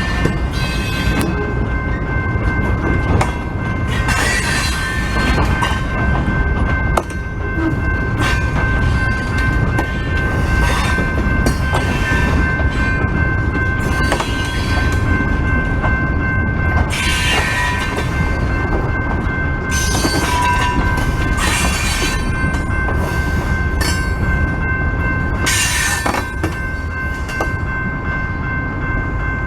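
Freight train cars rolling through a grade crossing: a loud, steady rumble of wheels on rail, with a steady high ringing tone and bright wheel squeals flaring every few seconds.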